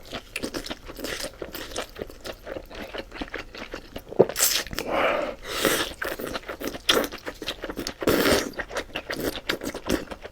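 Close-up crunchy chewing of hotpot-cooked beef tripe: quick crisp crackles of biting and chewing, with a few longer, louder bursts along the way.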